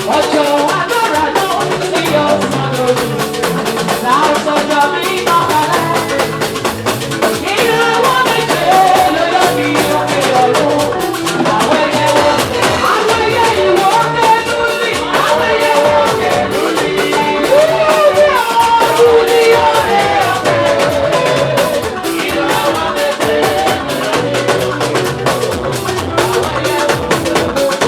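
Live gospel praise band playing: drum kit and percussion keep a steady beat under a melodic line, with some singing.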